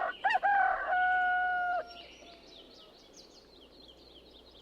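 A rooster crowing once: a short rising start, then a long held note that stops a little under two seconds in. Faint small-bird chirps follow, repeating quickly.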